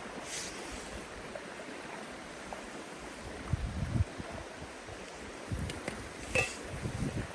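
Steady rush of a river flowing, with a few short low thuds and a sharp click in the second half.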